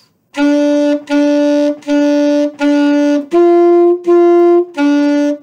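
Saxophone playing eight short, separately tongued notes in an even beat on two pitches a minor third apart, the beginner notes so and mi: four low, two higher, then two low.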